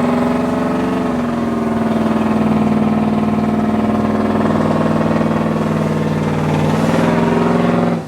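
Truck engine held at steady high revs, its pitch shifting slightly a couple of times, the way a motor is held on the limiter during a burnout.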